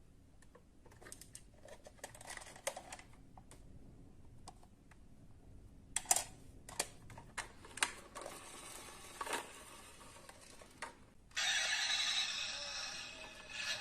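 Die-cast model cars being handled: scattered light clicks and taps, busiest from about six seconds in. Near the end a louder, steady scraping rustle starts abruptly.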